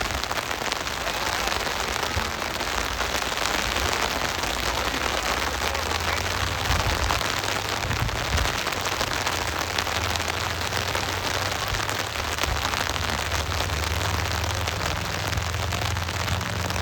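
Heavy rain falling: a steady hiss of drops with many fine ticks of raindrops close by. A low rumble joins it about five seconds in.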